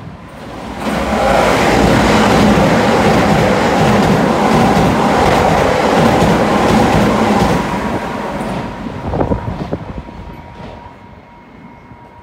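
Keisei Line electric commuter train pulling into the platform. It runs loud from about a second in, then fades over the last few seconds as it brakes to a stop, with a few sharp wheel clacks near the end.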